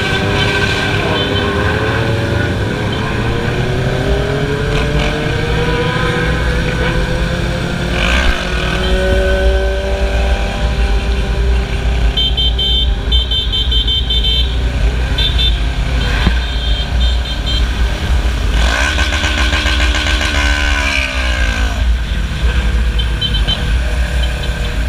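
Motorcycle engines on a group ride, revving up through the gears with pitches rising and falling, over a steady low rumble. A few short high toots sound in the middle, and near the two-thirds mark an engine note sweeps downward as a bike passes or slows.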